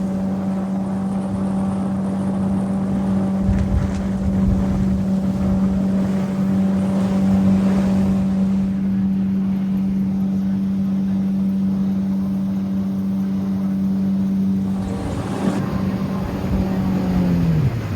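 Boat motor running steadily at speed. Near the end its pitch drops sharply as the throttle is pulled back.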